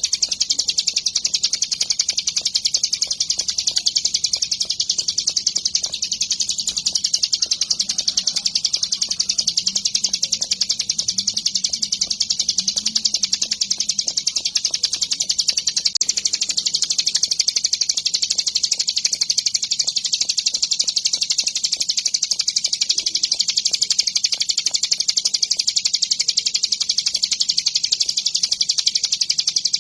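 Ciblek gunung, a prinia, singing nonstop: a rapid, high-pitched chattering song with no pauses.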